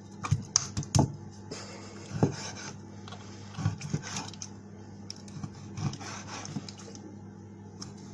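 Irregular knocks and scrapes of kitchen work on a chopping board as pieces of chopped chicken and utensils are moved about, with a low steady hum underneath.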